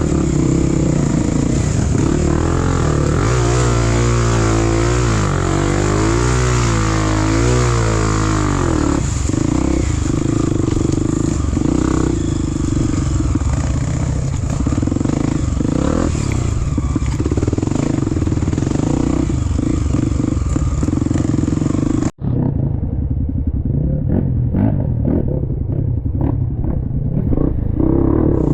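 Dirt bike engine running on a trail, its pitch rising and falling repeatedly for several seconds as the throttle is worked, then running steadier. About 22 seconds in the sound drops out for an instant and comes back duller.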